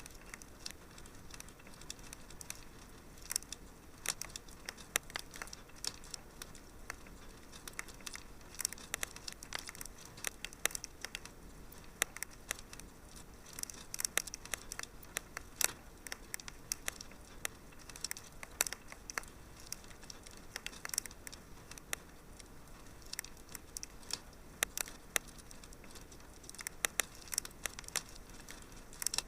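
Wood fire in a fireplace crackling, with irregular sharp pops and snaps of varying loudness over a soft steady hiss.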